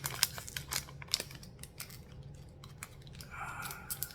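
Quick, irregular light clicks and taps of jelly beans being picked out and set onto a spoon, the sharpest click just after the start.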